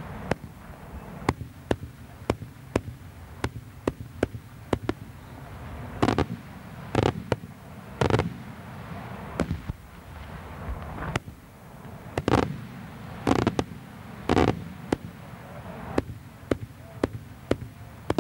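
Daytime aerial fireworks shells bursting overhead: a steady run of sharp cracks and bangs, with heavier booms coming in two clusters, about six to eight seconds in and again about twelve to fourteen seconds in.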